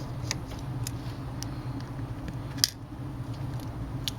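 Small, sharp clicks of a pry tool working at the tablet's flex-cable connectors and frame, a few light ticks and one louder snap about two and a half seconds in, over a steady low hum.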